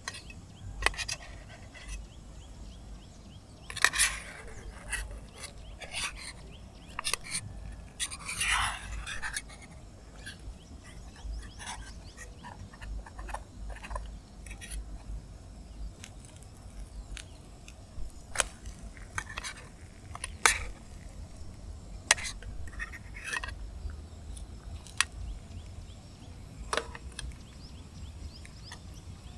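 Irregular clicks, taps and short scrapes of small objects being handled, over a steady low rumble.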